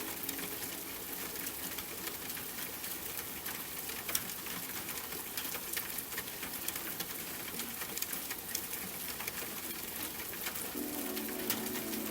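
Steady rain with many separate drops tapping. Soft sustained music tones fade out within the first second and come back near the end.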